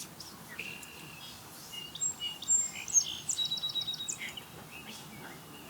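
Birds calling: a few high whistled notes and a quick run of repeated chirps, about ten a second, bunched between two and four and a half seconds in.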